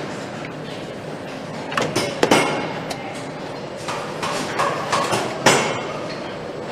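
Assembly-line work: a string of sharp metal knocks and clanks over steady machine noise, the loudest just past two seconds in and again about five and a half seconds in.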